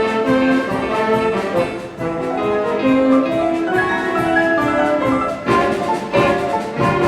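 Children's brass band playing a medley of cartoon tunes: held brass melody notes over accompaniment, turning more rhythmic and choppy about five seconds in.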